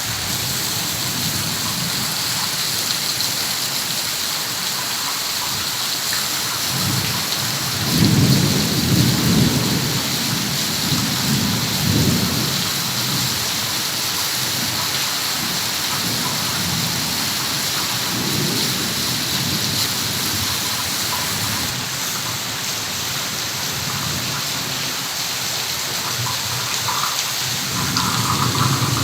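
Heavy rain falling steadily in a dense hiss. Low rumbling swells come in about eight seconds in, again around twelve and eighteen seconds, and near the end, the first one the loudest.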